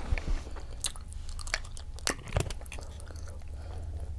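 Close-miked mukbang eating sounds: a person biting and chewing food, with scattered wet mouth clicks and crunches over a steady low hum.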